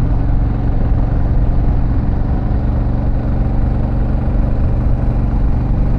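Harley-Davidson Pan America's Revolution Max 1250 V-twin running steadily under the rider, with a constant low engine tone and a haze of road and wind noise.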